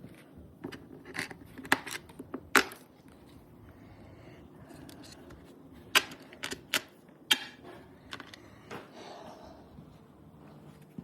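Irregular sharp clicks and knocks, about a dozen, the loudest a couple of seconds in and a cluster of them six to seven seconds in, over a low steady hum.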